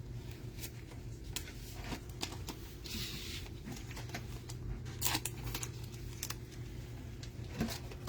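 Trading cards and plastic card sleeves being handled: scattered light clicks and taps, with a brief sliding rustle about three seconds in and a few sharper clicks around five seconds, over a faint steady low hum.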